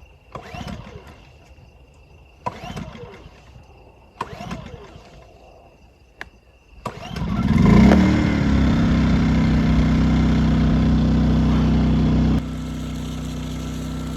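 Portable generator being pull-started: a few short pulls on the recoil starter, then the engine catches about seven seconds in, surges and settles into a steady run. About twelve seconds in the sound drops abruptly to a lower steady level.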